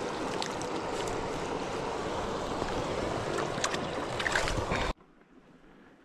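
Shallow river water splashing and swirling around a hand and landing net as a trout is released, over the steady rush of the river, with a few sharp splashes; it cuts off suddenly about five seconds in.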